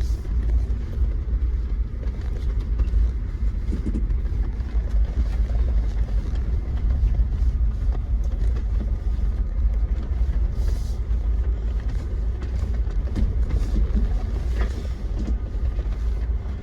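Jeep driving over a rough dirt trail: a steady low rumble with frequent rattles and knocks as it rides over the bumps.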